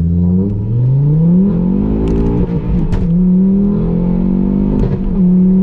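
Modified Ford Focus RS engine pulling hard under acceleration. Its note rises in pitch, drops at a gear change a little over two seconds in, then climbs again, with a few sharp cracks from the exhaust around the shifts.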